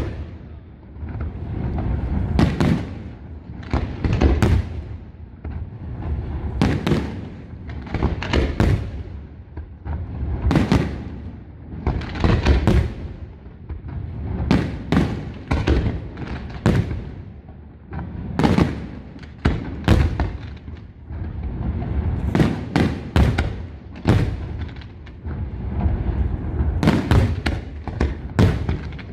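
Aerial fireworks display: shells bursting in irregular volleys of sharp bangs and deep booms that roll and echo, with crackling between the bursts.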